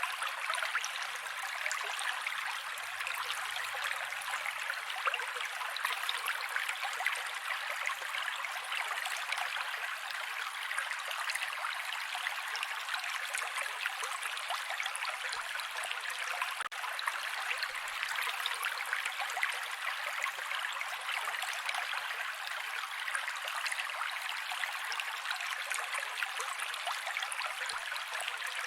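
Mountain creek water rushing and splashing over rocks in a steady, unbroken stream, with little deep rumble.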